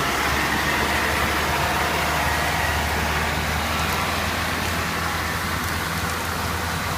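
HOWO 4x4 light truck's engine running steadily under way, with an even rushing noise over it.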